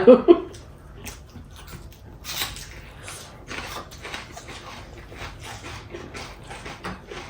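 Close-up eating sounds: chewing and lip smacking through a mouthful of chicken biryani, a quick irregular run of wet clicks and smacks.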